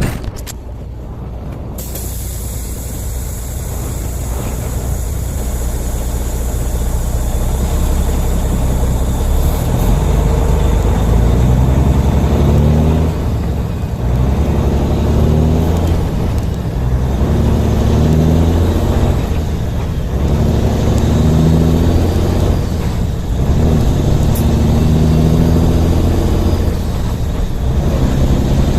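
Peterbilt semi-truck's diesel engine pulling hard and building over the first several seconds. It then works up through the gears, the engine note climbing and dropping back at each shift, again and again.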